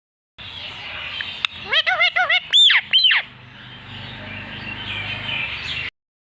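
Indian ringneck parrot calling: a quick run of about six short chirps, then two louder arched squawks, over a steady background hiss.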